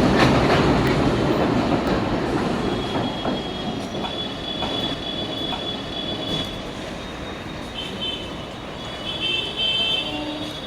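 Electric multiple unit (EMU) local train running by on the rails and moving away, wheels clacking over the rail joints as it fades steadily. Thin, high wheel squeal comes in about two and a half seconds in and again, louder, near the end.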